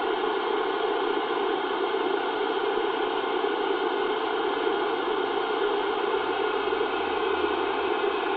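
CB radio receiver hissing with static on an open channel, a steady even hiss with faint steady tones running through it.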